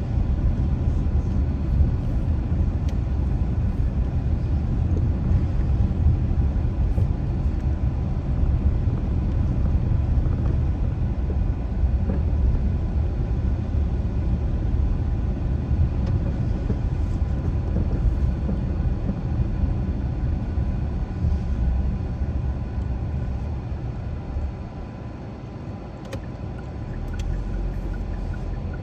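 Car driving: a steady low rumble of engine and road noise. It drops off about 24 seconds in and rises again near the end.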